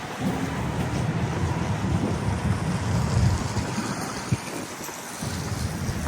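Wind buffeting the microphone: a low rumble that rises and falls unevenly.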